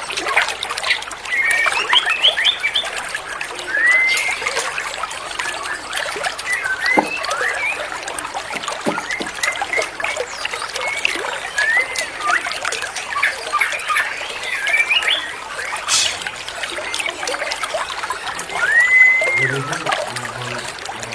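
White-rumped shama singing: rising, slurred whistles every few seconds with quick chattering notes between them, over a steady trickle of running water.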